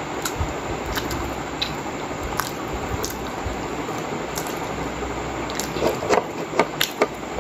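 Close-miked chewing of pork momo dumplings, with soft wet squishing and scattered mouth clicks over a steady background hiss. Near the end there is a quick run of sharper, louder clicks and smacks.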